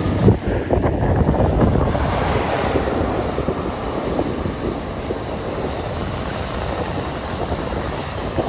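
Amtrak Capitol Corridor passenger train rolling past at close range: a loud, steady rush of wheels on rail and car noise.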